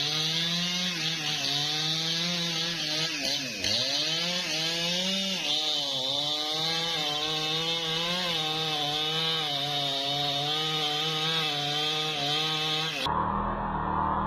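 Newwest 628 two-stroke chainsaw running at high speed through angsana wood, its engine note wavering as the chain bites. About four seconds in, the engine bogs sharply in the cut and recovers. The sound cuts off abruptly about a second before the end.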